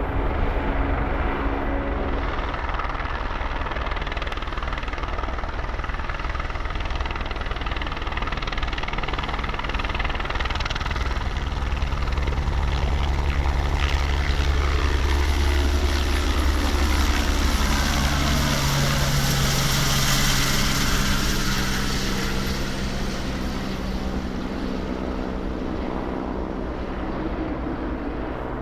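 Helicopter running close by, its rotor and turbine sound swelling to a peak past the middle and then fading, with its tone dropping as it goes by.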